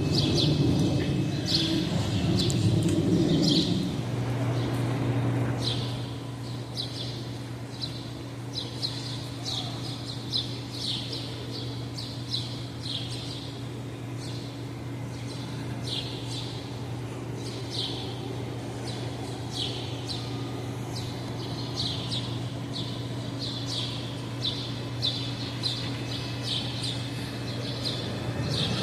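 Small birds chirping over and over in short high notes, one or two a second, over a steady low hum. A louder low rumble underneath fades out about four seconds in.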